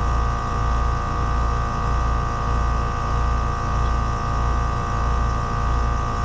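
Trane two-stage heat pump outdoor unit running in second stage: steady compressor and fan hum with a low throb that swells and fades about once a second. It is running with falling suction pressure and rising head pressure, which the technician takes for an electronic expansion valve control fault.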